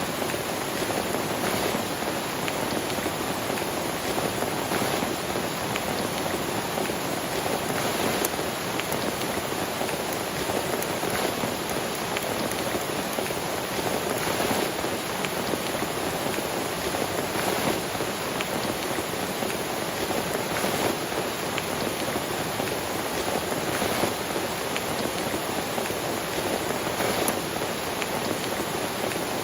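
Heavy rain falling steadily, with scattered sharper drop hits through a constant hiss.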